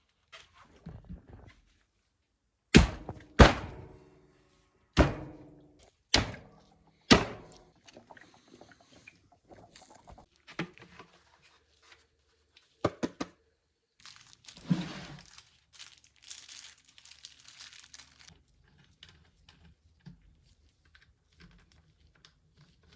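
Hands at work on a jet ski's battery compartment: five sharp clunks and knocks with a short ringing after each, a few lighter clicks, then a few seconds of rustling.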